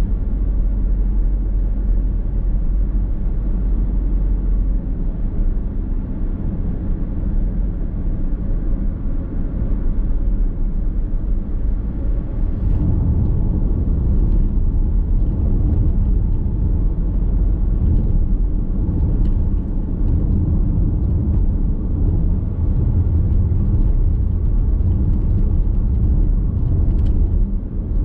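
A car driving along a road, heard from inside the cabin: a steady rumble of road and engine noise that grows heavier about twelve seconds in, with a few faint ticks near the end.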